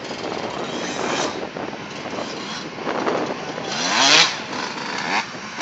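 ATV engine running and revving, with a rising rev that peaks loudest about four seconds in.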